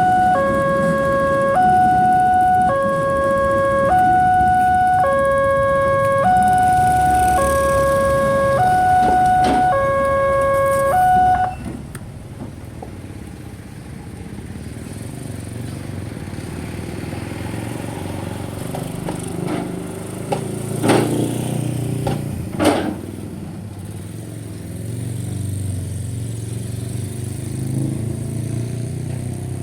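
Railway level-crossing warning alarm: an electronic two-tone chime switching back and forth about every 0.7 s, which cuts off suddenly about eleven seconds in as the warning ends. After it, road traffic runs over the crossing, with two sharp knocks a couple of seconds apart.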